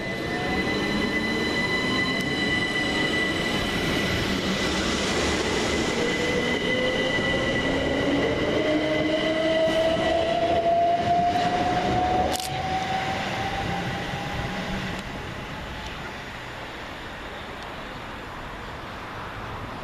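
Southern Class 377 Electrostar electric multiple unit pulling away, its traction motors whining in several tones that rise slowly in pitch as it gathers speed. The sound is loudest about eleven seconds in, with a sharp clack about twelve seconds in, then fades as the train draws away.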